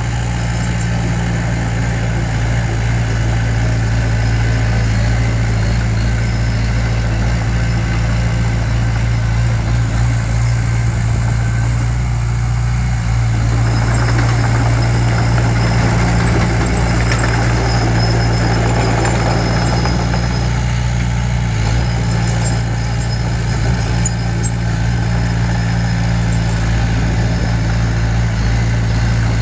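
Diesel engine of heavy construction machinery running steadily at a low, even pitch. A rougher stretch of noise rises over it for several seconds around the middle.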